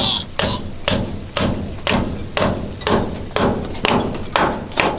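A hammer striking wood in a steady rhythm, about two blows a second.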